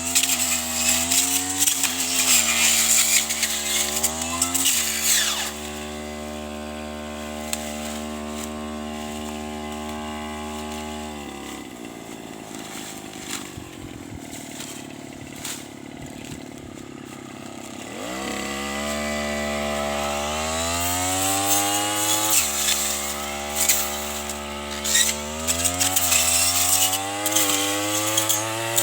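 Tanika brush cutter's small petrol engine revving while cutting grass and corn stalks, with rough crackling from the cutting head. About five seconds in it settles to a steady lower speed, then drops to idle for several seconds. It revs back up a little after halfway and cuts again.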